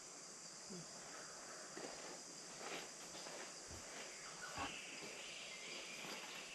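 Faint monsoon-forest insect chorus, a steady high drone of crickets and other insects, with soft footsteps on the track. A second, lower steady insect note joins about halfway through.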